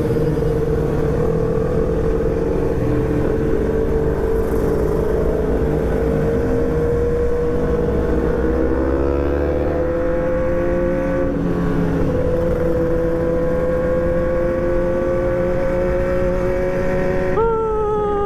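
Motorcycle engine held at high revs, its pitch creeping slowly upward, with a second engine's note sliding down about ten seconds in.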